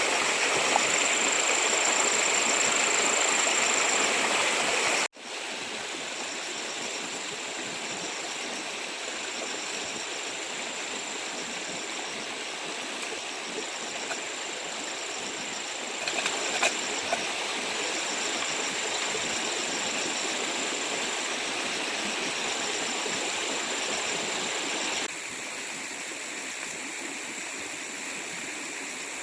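Running stream water, a steady rushing wash, with a high, thin whine that comes and goes every few seconds above it. The water sound drops abruptly in level about five seconds in and again near the end.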